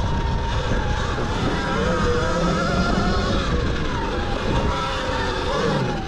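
Zero XB electric dirt bike riding through sand: the electric motor's whine drifts up and down with the throttle over heavy wind rush on the microphone.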